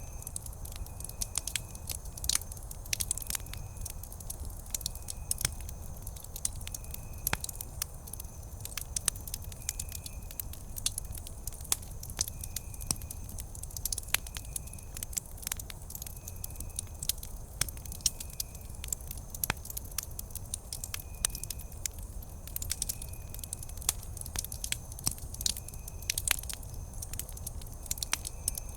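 Wood campfire crackling, with frequent irregular sharp pops and snaps over a low steady rumble of the flames.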